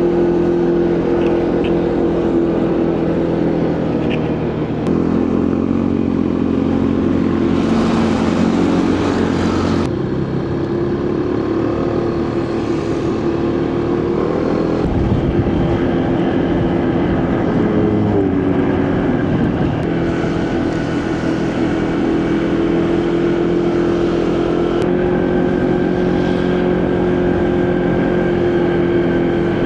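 Motorcycle engine running under way, recorded from the bike with road and traffic noise; its pitch steps up and down several times as the speed changes.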